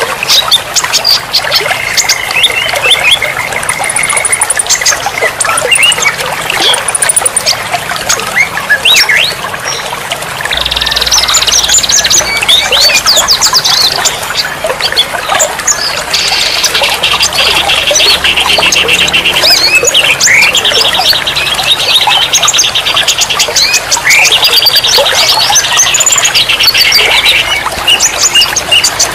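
Many songbirds calling together, with chirps, whistled sweeps and long rapid buzzy trills overlapping, over a steady trickle of running water.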